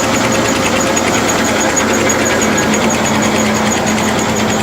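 Tractor engine running steadily while it drives a flour mill (atta chakki), making a dense, continuous mechanical din with a fast, regular high ticking.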